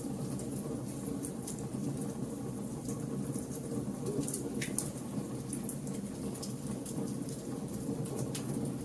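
Logs burning in a campfire: a steady low rush of flame with irregular sharp crackles and pops scattered throughout.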